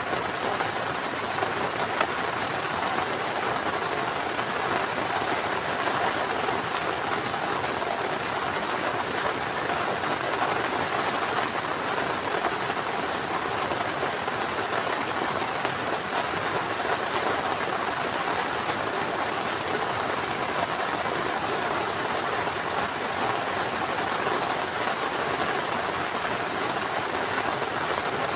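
Heavy rain falling steadily, a dense even patter with a few sharper drips.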